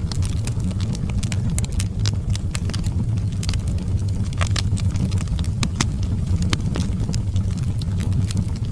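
Fire burning in a fireplace: a steady low rumble of the flames with frequent irregular crackles and sharp pops.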